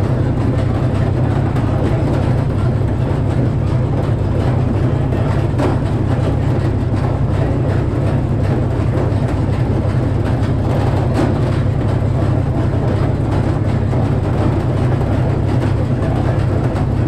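Frick sawmill running steadily, a heavy, unbroken engine drone under the noise of the 48-inch circular saw.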